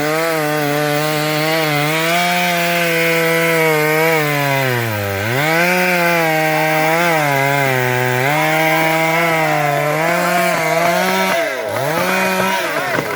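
Two-stroke chainsaw cutting into the trunk of a large simal (silk-cotton) tree, its engine held at high revs under load. The pitch sags sharply as the chain bogs in the wood about five seconds in and again near the end, then the saw drops away.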